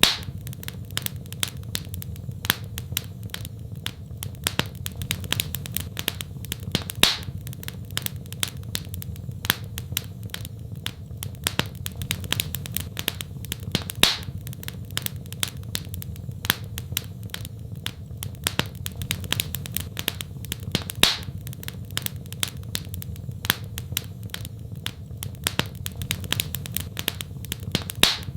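Wood fire crackling in a fireplace: many small snaps, with a louder pop about every seven seconds, over a low steady rumble.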